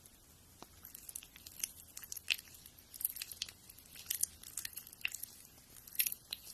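Fingernails being filed by hand: irregular short scratching strokes, a few a second.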